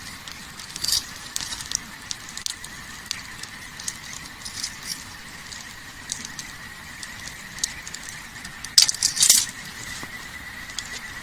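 Wood campfire crackling with scattered sharp pops, a loud cluster of pops near the end, over a steady high-pitched tone.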